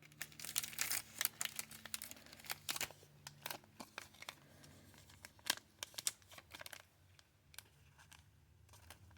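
Thin plastic crinkling and rustling with irregular small crackles as a trading card is handled and slid into a soft plastic sleeve. It dies down near the end.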